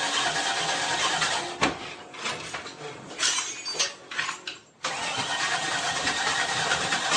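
A motor running with a steady noise. It is broken about a second and a half in by a knock and a few short irregular sounds, then starts again abruptly near the middle.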